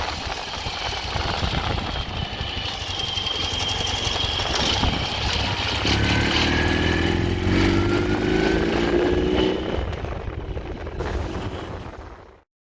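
2010 Ural 750 sidecar motorcycle's boxer-twin engine running, its pitch rising slightly from about halfway through, then fading away near the end.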